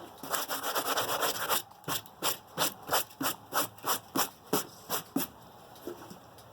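Sawdust being swept off the face of a freshly sawn black locust board. A quick run of rubbing gives way to short, brisk strokes, about three a second, which stop about five seconds in.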